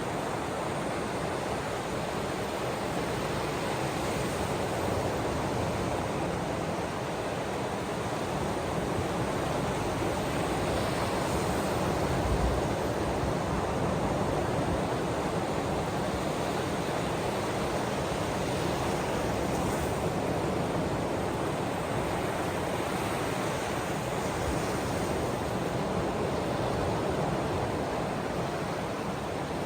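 Ocean waves washing steadily against the shore, a continuous rush that swells and eases slowly.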